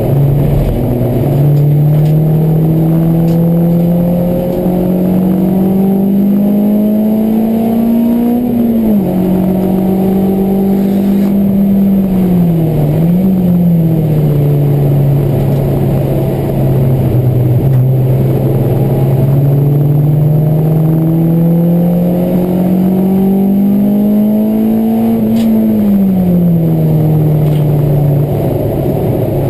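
Honda Civic EK4's 1.6-litre DOHC VTEC four-cylinder engine heard from inside the cabin under load on track, its revs climbing slowly and then falling away as the driver lifts, twice, with a brief dip and recovery near the middle.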